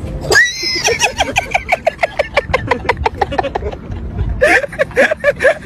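A sudden high cry, then a person laughing hard in a long, rapid run of 'ha-ha' bursts, breaking off briefly near the end and starting again.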